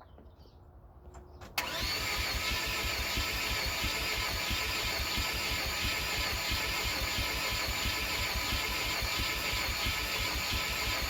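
Chevy S10 engine, fouled with sand, being cranked over by its starter motor, starting suddenly about a second and a half in and turning over steadily with a rapid even chugging and a steady whine, without catching: the engine turns and has not locked up, but it will not run.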